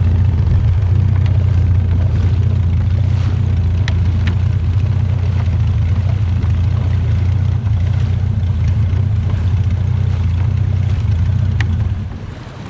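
Small fishing boat's engine running with a steady low hum, which drops off sharply near the end as the engine is throttled back.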